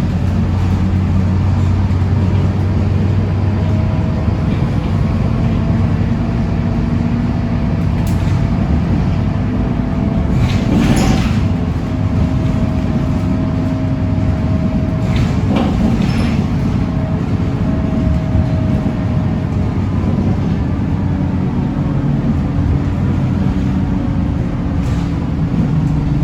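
Scania K230UB city bus driving, its diesel engine and drivetrain running steadily with a drivetrain whine that slowly rises and falls in pitch. Two short bursts of noise come through, about eleven and sixteen seconds in.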